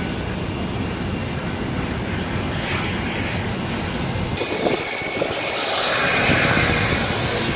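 Airliner's jet engines running with a steady rushing noise and low rumble, getting louder about six seconds in.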